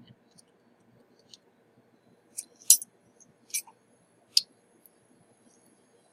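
Small metal hand tools clicking and tapping on a soldering bench: about four short, sharp clicks between two and four and a half seconds in, the loudest near three seconds.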